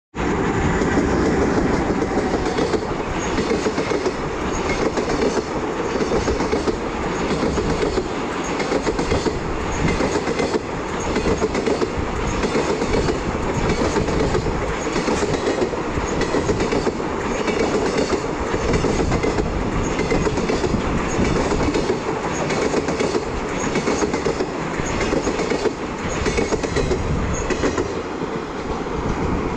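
JR Freight EH500 electric locomotive passing close by, then a long string of empty Koki 100-series container flatcars rolling past, their wheels clattering over the rail joints in a steady repeating clickety-clack.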